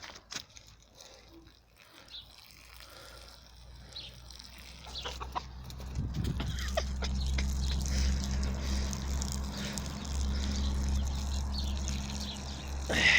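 A chicken clucking a few times, quietly. About six seconds in, a steady low hum starts and carries on under it.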